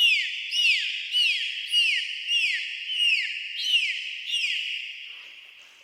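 An animal calling: a steady series of high chirping calls, about two a second, each dropping in pitch. The calls fade out near the end.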